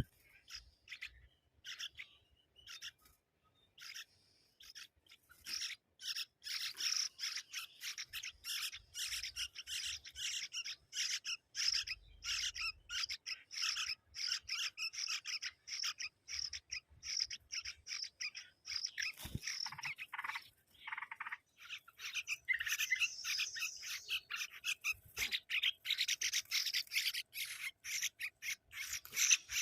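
Young birds calling in rapid, high-pitched chirps: chicks begging to be fed. The calls are sparse at first, turn dense and continuous about six seconds in, ease off briefly, then grow louder and busier near the end.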